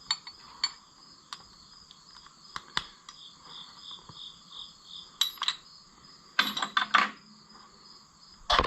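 Scattered light metallic clicks and clinks of hand tools and small parts being handled, with a louder clatter a little past the middle and again near the end. A short run of evenly spaced high chirps sounds in the background just before the middle.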